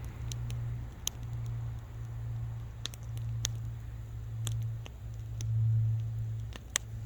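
Wood fire crackling: irregular sharp pops and snaps, the loudest near the end, over a steady low rumble that swells and fades.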